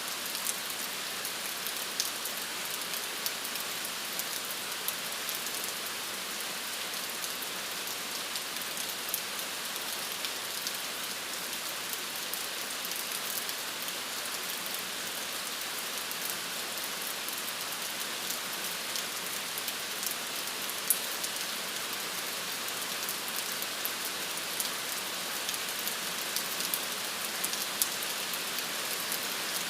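Steady rain falling, a dense even hiss with many individual drops pattering and ticking on a surface.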